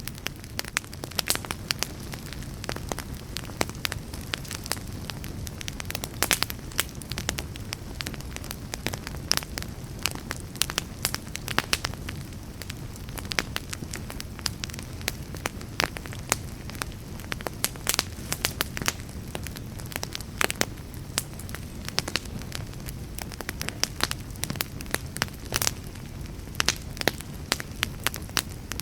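Wood fire burning steadily, with frequent irregular crackles and sharp pops over a low, even rumble of the flames.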